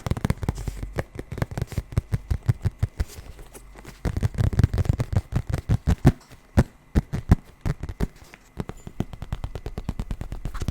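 Rapid tapping on a Nintendo Switch carrying case, many quick taps a second in uneven flurries, loudest through the middle.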